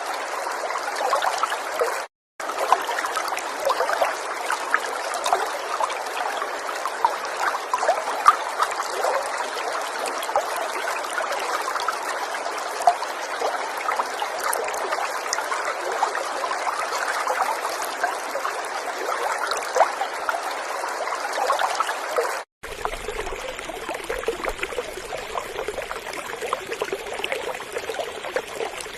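River water flowing and trickling in a steady rush, with many small splashes. It cuts out completely for a split second about two seconds in, and again about three quarters of the way through. After the second cut the water sounds deeper, with a low rumble and fewer bright splashes.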